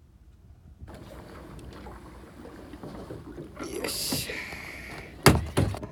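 Noise on a small fishing boat: a steady rush of wind and water, a brief louder hiss about four seconds in, then two loud knocks near the end.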